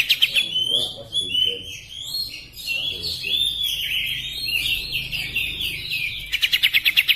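Oriental magpie-robin (kacer) singing a varied, continuous song of chirped and whistled phrases, switching near the end to a rapid run of one repeated note.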